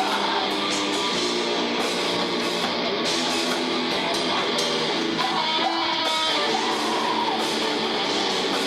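Rock band playing live, led by loud electric guitars, with cymbal hits over the top.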